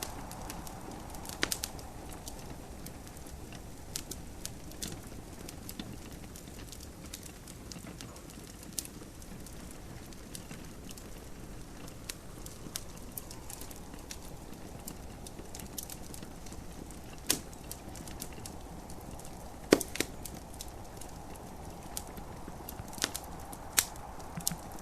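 Wood fire crackling in a fireplace: irregular sharp pops and snaps, the loudest a little past halfway and a cluster near the end, over a steady low hiss.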